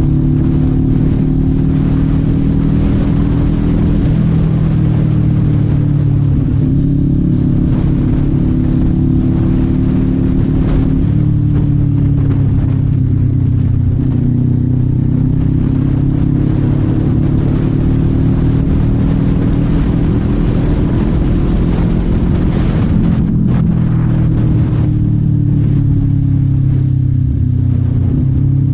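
Kawasaki Z400 parallel-twin engine heard from the rider's seat, running at moderate, fairly steady revs, its pitch easing up and down with the throttle and dipping briefly a few times. Wind and road noise run underneath.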